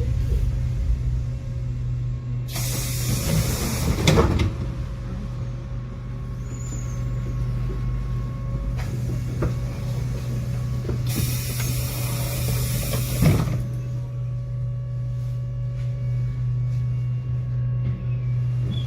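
Tram running with a steady low electrical hum. Two loud hisses of released compressed air, each lasting about two seconds, come a few seconds in and again about midway.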